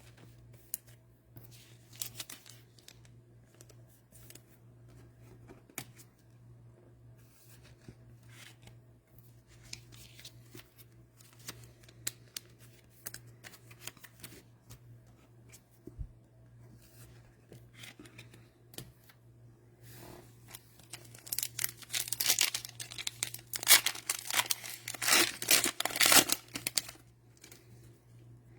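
Scattered light clicks of trading cards being handled, then, about two-thirds of the way through, several seconds of loud tearing and crinkling as the plastic wrapper of a cello pack of football cards is ripped open.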